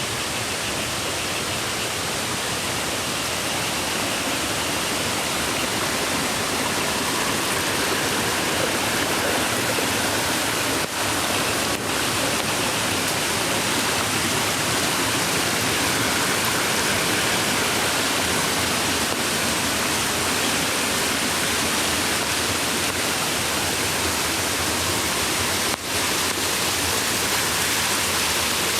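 Mountain creek water rushing steadily over rocks, loud and unbroken, with a few very short dips in level.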